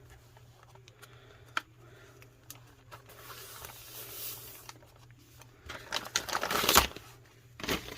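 Paper and card being handled: pages of a junk journal turned and shuffled, with soft rustling and light taps, busiest a few seconds before the end.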